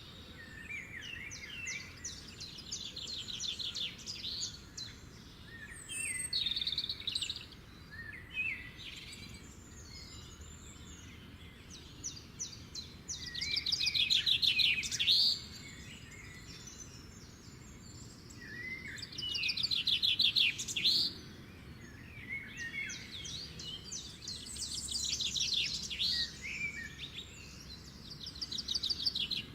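Songbirds singing: repeated fast, high trills a second or two long, with varied chirps between them. The trills are loudest about halfway through and again about two-thirds of the way through.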